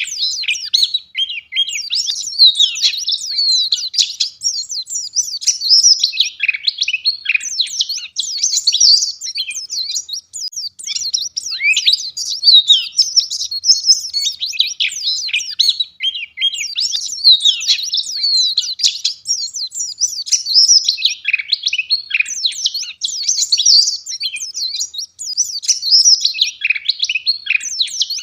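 White-eye (Zosterops) singing a dense, rapid twittering song of high chirps and trills, almost unbroken with only brief gaps.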